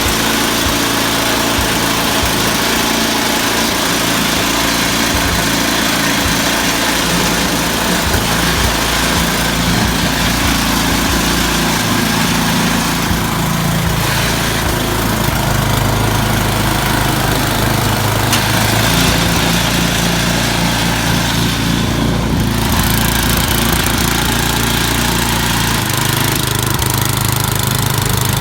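A small petrol engine running steadily, its speed stepping up and down now and then.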